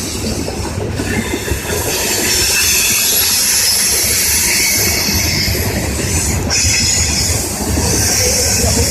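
CSX coal train's cars rolling past close by: a loud, steady rumble of wheels on rail with a high-pitched squeal from the wheels over it.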